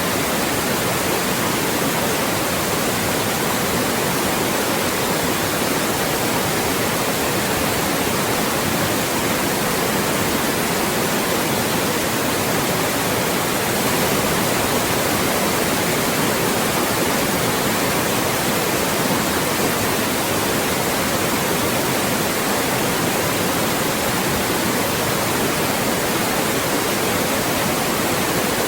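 Loud, steady white noise: an even, unchanging hiss across all pitches, generated for masking speech.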